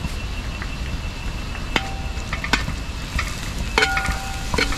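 Chopped onions, shallots, ginger, chillies and curry leaves sizzling in hot oil while being stirred, the spatula knocking against the pan a few times, the later knocks leaving the pan ringing.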